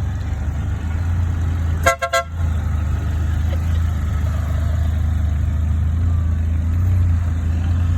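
A vehicle engine running with a steady low hum, and a quick horn toot of two or three short pulses about two seconds in.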